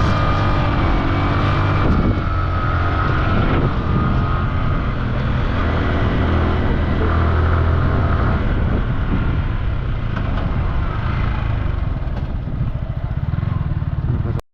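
Dirt bike engine running, its pitch rising and falling as the throttle changes.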